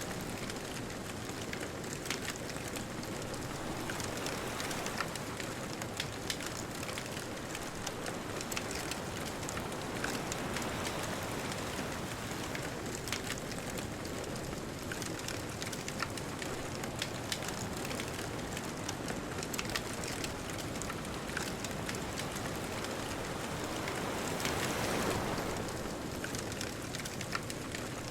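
Wood bonfire crackling, with frequent small sharp pops and snaps over a steady hiss. An ocean wave washes in and swells louder about 25 seconds in.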